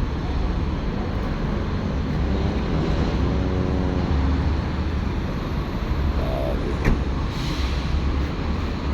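Street traffic noise: a steady low rumble of passing vehicles, with one passing engine's pitched note swelling briefly about three to four seconds in. A single sharp click comes near the end.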